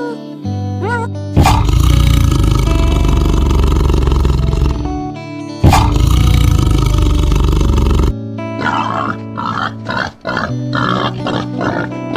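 Two long, loud animal roars, the second starting about halfway through, over steady background music, followed near the end by a run of short grunts.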